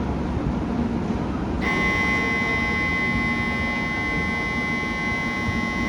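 A steady electronic buzzer tone switches on suddenly about one and a half seconds in and holds without changing. It sounds over a low steady hum from the train standing at the platform.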